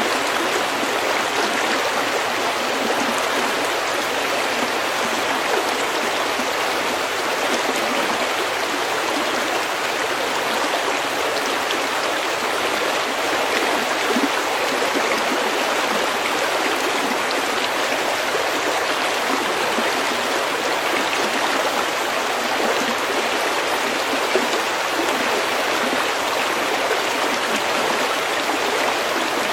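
Small creek flowing steadily over pebbles, a constant even babble of running water.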